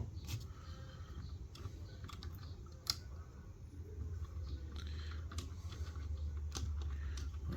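Scattered light clicks and taps of small parts being handled and pushed onto a 1/18 scale diecast model car, with one sharper click about three seconds in, over a low steady hum.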